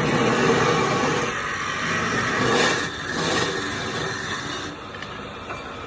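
Wood lathe running with a noisy scraping sound, brightest about two and a half to three and a half seconds in, then dropping in level about five seconds in.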